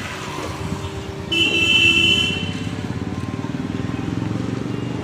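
Road traffic running steadily, with a vehicle horn sounding one held note for about a second, starting about a second and a half in.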